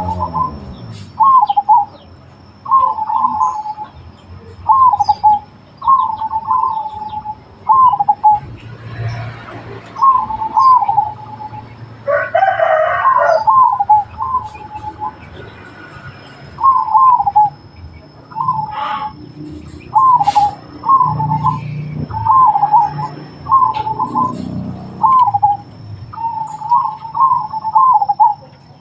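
Zebra dove (perkutut) song: short phrases of quick cooing notes, repeated every second or two. A louder, longer call cuts across about twelve seconds in.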